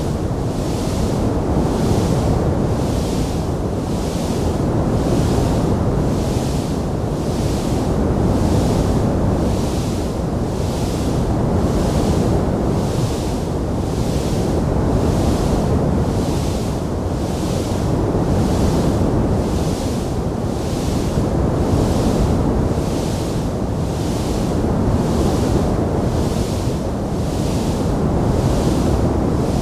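Steady rushing noise presented as a burning wood fire, with no distinct crackles standing out. A hiss in its upper range swells and fades very regularly, about once a second.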